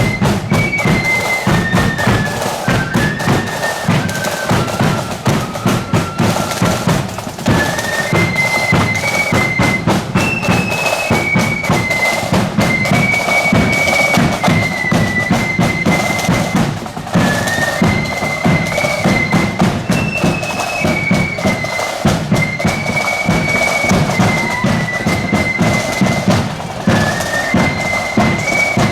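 Marching flute band playing a tune: a high flute melody over a steady beat of snare and bass drums.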